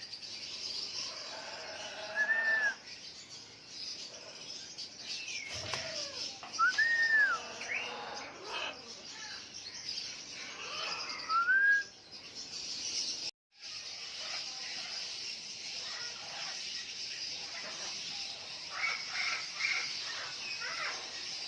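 Parrots calling: a few short calls that rise and fall in pitch, heard several times, over a steady high chirping in the background.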